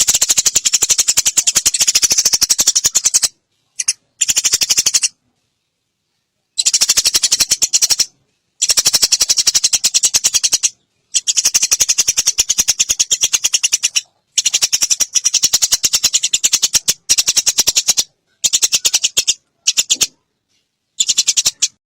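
Eurasian tree sparrows in an agitated fighting chatter: rapid, harsh, high chirps run together into rattling bouts of one to several seconds, each stopping abruptly, with short silences between.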